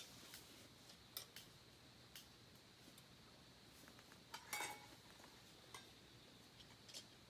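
Faint, scattered clicks and light clinks of small hard objects being handled, the loudest cluster about four and a half seconds in, over near silence.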